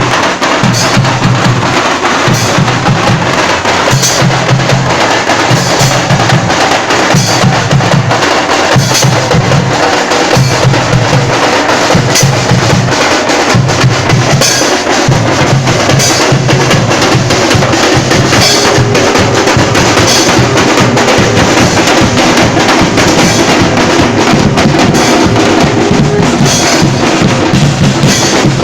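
Loud drumming in a steady, repeating rhythm, with a deep beat under a dense clatter of sharp strikes.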